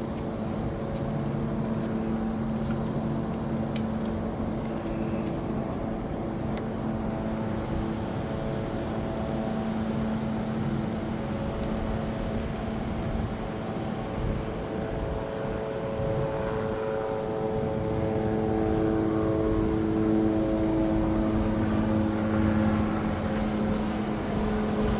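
A steady engine drone, a low hum with several held tones, growing somewhat louder in the second half.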